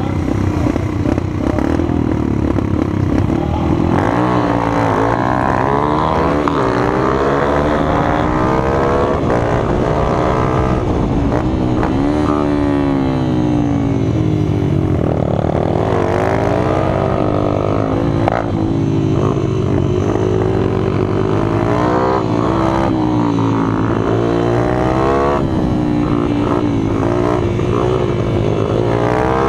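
Small minibike engines running: a steady drone for the first few seconds, then revving up and down again and again, the pitch rising and falling as they accelerate and slow, with more than one engine heard at once at times.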